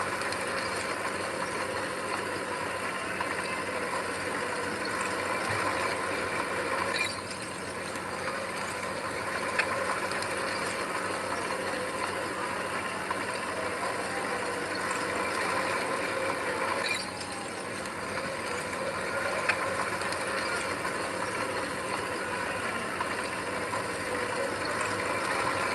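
Heavy diesel earth-moving machine running steadily, with a few sharp clanks.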